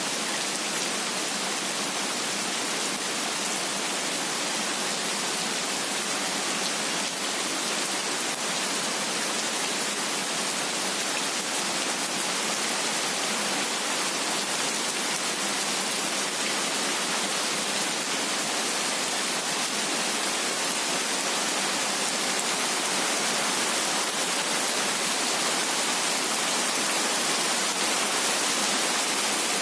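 Heavy rain falling steadily: an even, unbroken hiss with no single drops, thunder or other sounds standing out.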